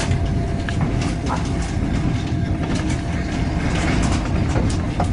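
Passenger train running, heard from inside the carriage: a steady low rumble of wheels on rails with scattered clicks and knocks.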